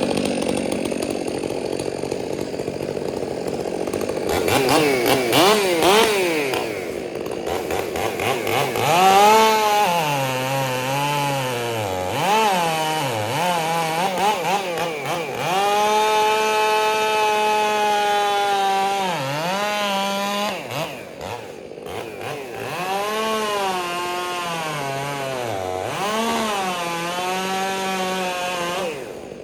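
STIHL 400 chainsaw with an aftermarket exhaust cutting wood at high revs. The engine note sags again and again as the chain loads up in the cut, then climbs back, and holds steady at full throttle for a few seconds in the middle.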